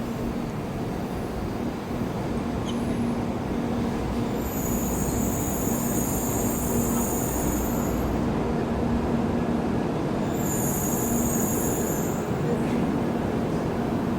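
Sanyo Shinkansen train running into the platform as it arrives, with a steady rumble that grows slightly louder. High-pitched squealing from the wheels or brakes comes in about four seconds in and again around ten seconds.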